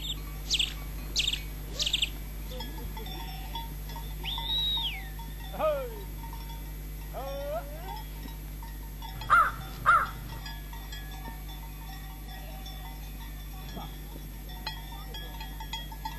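Birds calling at intervals: three quick high chirps, then a few whistled and sliding calls, the loudest pair about ten seconds in. A steady low hum runs underneath.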